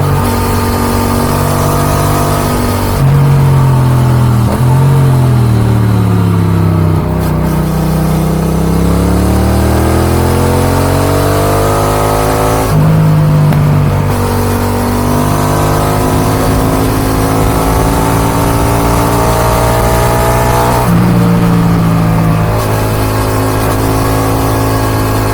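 Yamaha XSR 700's CP2 689 cc parallel-twin through an Akrapovic dual exhaust, under way. The revs fall as the bike slows on engine braking, then climb as it accelerates again. The pitch drops twice for upshifts, about halfway through and again near the end.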